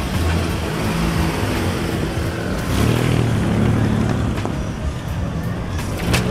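Engines of classic lowrider cars rumbling as they cruise slowly past, one passing car's low engine note swelling about three seconds in, with music playing underneath. A sharp click near the end.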